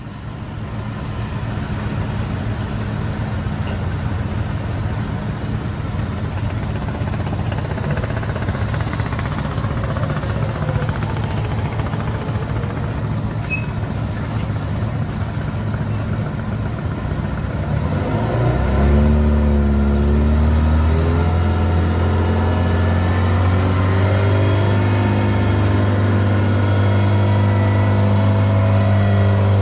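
Diesel truck engine, a Detroit Diesel, running. About two-thirds of the way in its note wavers up briefly, then settles into a louder, steady, deeper drone.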